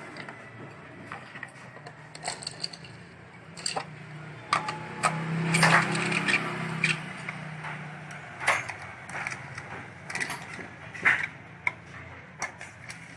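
Hand tools and metal engine parts clicking and clinking irregularly as a Yamaha Ray scooter engine is reassembled. A low hum swells in the middle.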